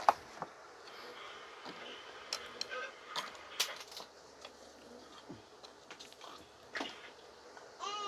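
Close-miked eating and handling noises: soft wet mouth clicks and smacks from chewing, then scattered small taps and rustles of hands working right by the microphone.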